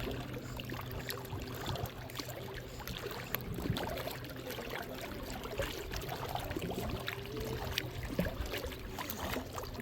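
Lake water lapping and trickling, full of small irregular ticks and splashes, over a faint steady low hum.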